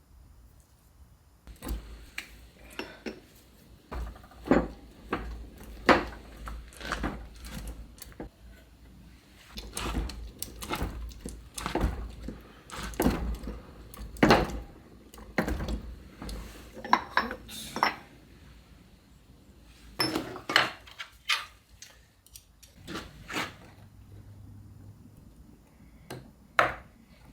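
Metal gearbox parts being handled: irregular sharp clinks, clicks and knocks of metal on metal, some with a dull thud.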